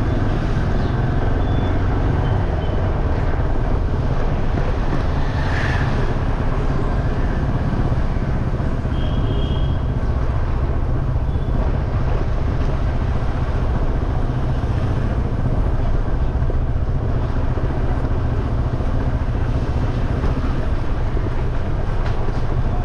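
Motorcycle in motion through traffic: steady engine and road noise under a heavy, constant low wind rumble on the microphone, with a couple of brief high tones about a second in and again around nine seconds.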